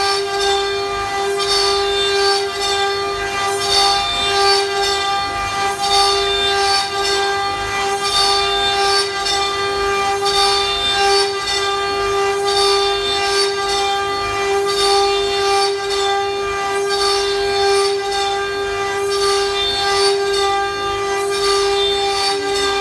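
CNC router spindle running with a steady high-pitched whine while it machines wood, with a hiss that swells and fades about once a second.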